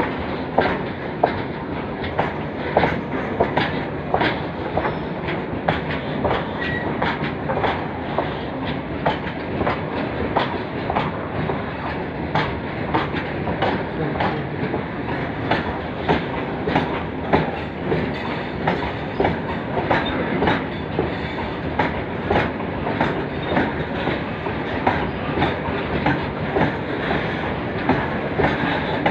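Railway carriage wheels clattering over rail joints as a train passes, with a steady rumble and many sharp clicks, several a second and irregularly spaced.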